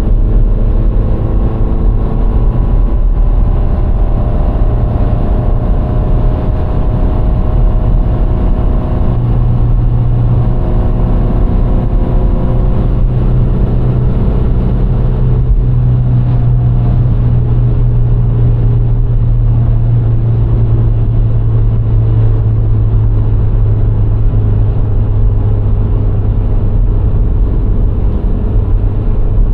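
VW Golf IV's 1.6-litre four-cylinder petrol engine running at a steady pace on the road, with tyre and road noise. A deep, steady hum is the loudest part, and the engine note shifts only slightly.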